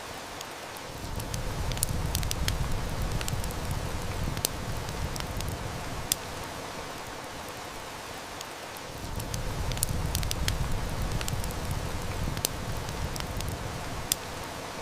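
Steady hiss of heavy rain, with sharp snaps and crackles of a burning wood fire scattered through it. A low rumble of distant thunder swells up twice, about a second in and again around nine seconds, each roll lasting about five seconds.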